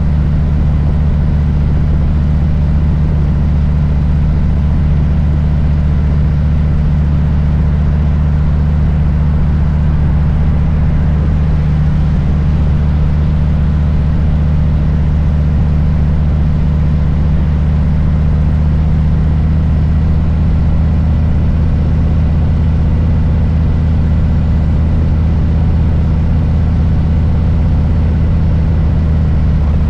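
Harley-Davidson Low Rider S's Milwaukee-Eight V-twin engine, a steady low rumble at nearly constant engine speed with no revving.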